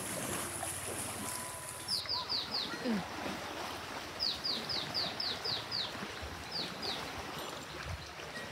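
A bird calling in runs of quick, falling whistled notes: four, then seven, then two. Under it runs a steady wash of river water.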